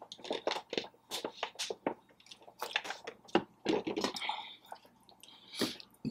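Close-miked chewing of soft, cheesy taco pasta: a quick, irregular run of wet squelching and clicking mouth sounds, with a couple of longer hissy slurps near the end.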